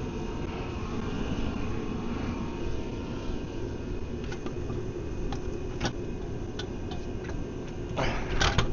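Steady low outdoor rumble, with a handful of light, sharp clicks and taps from about four seconds in, from tools and metal parts being worked on the gearbox.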